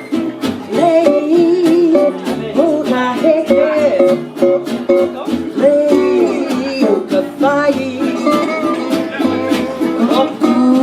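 Small acoustic band playing a Hawaiian-style tune live: guitar and ukulele strummed in a steady rhythm, under a melody line that slides between notes.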